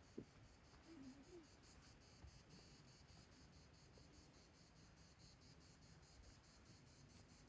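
Faint insect chirping, a regular high-pitched pulse about five times a second, over a low, quiet rumble.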